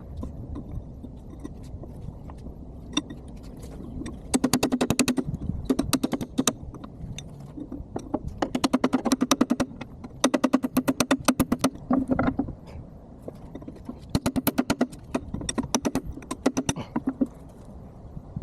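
Four bursts of rapid, evenly repeated metallic clicks and taps from hand-tool work on a hydraulic cylinder, played back at four times normal speed, over a steady low background hum.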